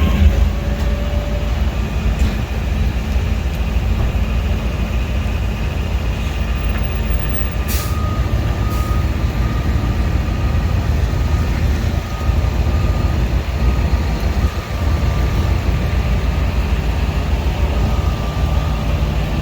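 Heavy truck engine running steadily, a loud low rumble, with a sharp click about eight seconds in.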